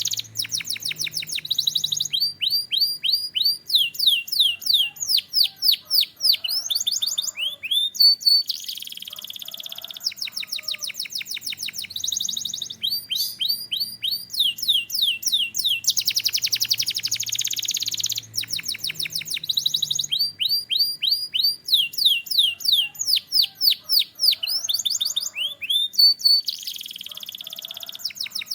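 Canary singing: fast trills alternating with runs of repeated sweeping whistled notes, the same sequence of phrases coming round again about every 16 seconds.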